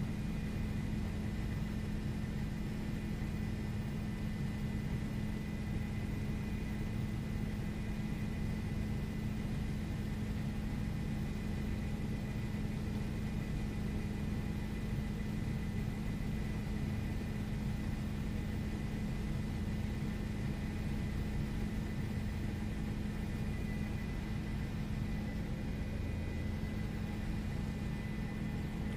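News helicopter cabin noise: a steady engine and rotor drone with a strong low hum and a faint thin high whine, unchanging throughout.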